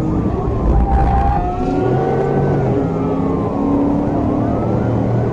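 Police car siren wailing, its pitch slowly rising and falling about once every three seconds, over the steady engine and road noise of a car driving at speed.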